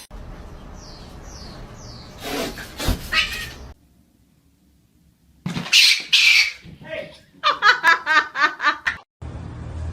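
A pet animal's high-pitched calls: loud cries about halfway through, then a quick run of short calls near the end.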